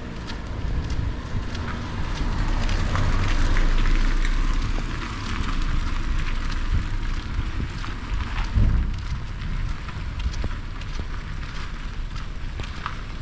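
Rain falling with many small drop ticks, while wind buffets the microphone with a low rumble that swells twice.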